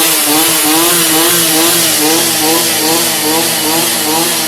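Stihl string trimmer's small engine running at high speed, its pitch wavering up and down about twice a second as the line cuts grass along the lawn edge.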